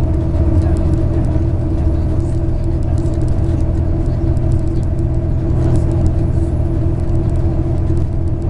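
MAZ 103 city bus heard from inside the passenger cabin while driving: a steady diesel engine drone with low road rumble and faint small rattles.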